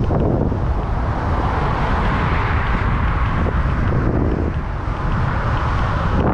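A car's tyre and engine noise on the road, a broad hiss that swells for a few seconds and cuts off near the end, over heavy wind buffeting the microphone with a low rumble.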